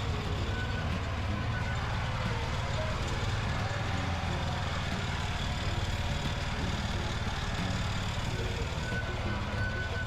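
Mini tractor engine running steadily and loudly, a continuous low drone with fast, even firing pulses.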